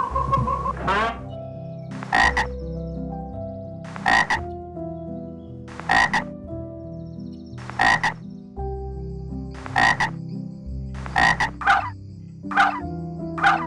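An animal's short croaking call, repeated about every two seconds and coming faster near the end, over soft background piano music.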